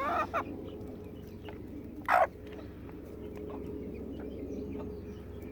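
Backyard chickens calling and clucking softly, with one short, louder call about two seconds in and small pecking clicks.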